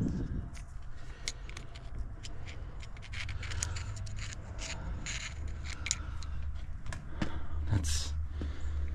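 Scattered light scrapes and clicks of hand work on metal parts, over a low steady hum that grows a little stronger about halfway through.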